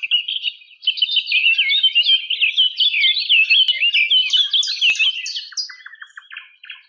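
Birds chirping and twittering rapidly, many quick overlapping calls, thinning out near the end.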